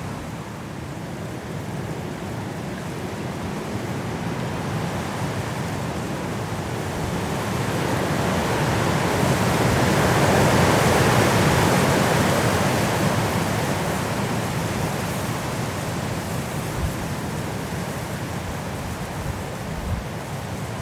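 Strong wind blowing through trees in a snowstorm. One gust swells to a peak about halfway through and then dies down again.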